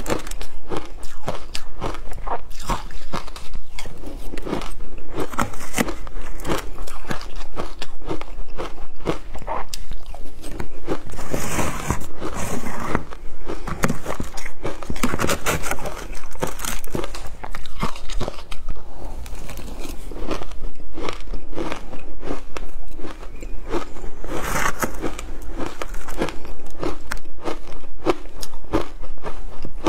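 A person biting and chewing shaved ice, a dense, continuous run of crackly crunches.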